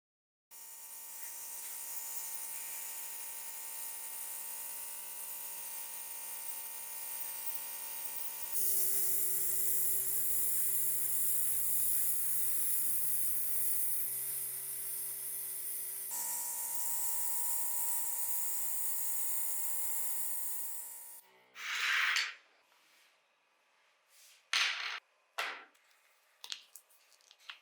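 Small handheld electric tool, such as a rotary tool or drill, running steadily with a high whine; its tone changes abruptly twice. Near the end it stops and a few short handling and scraping noises follow.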